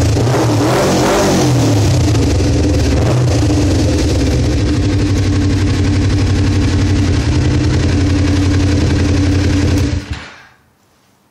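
Kawasaki ZZR250 parallel-twin engine running through an aftermarket Muzzy exhaust. It revs briefly about a second in, idles steadily, then is switched off and stops suddenly near the end.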